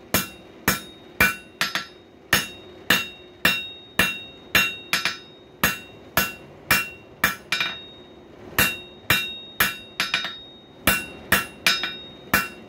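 Blacksmith's hammer striking hot coil-spring steel on an anvil, about two blows a second with a brief pause about two-thirds of the way through. Each blow gives a bright metallic ring from the anvil.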